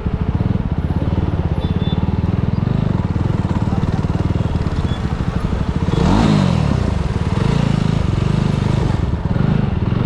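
Superbike engine running at low speed with a rapid, even exhaust pulse, with a short rev about six seconds in and smaller swells in throttle near the end.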